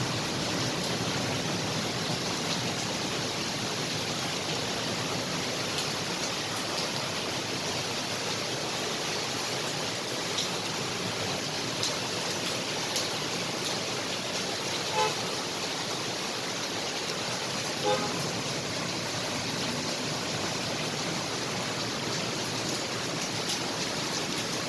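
Heavy rain pouring steadily over a flooded street with traffic, and two short car horn toots about fifteen and eighteen seconds in.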